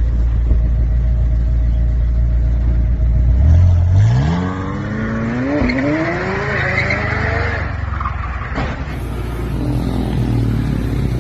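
Car engine running with a deep rumble, then revving up in one long rising climb that lasts about four seconds, with a hiss of spinning tyres as it peaks, as in a burnout.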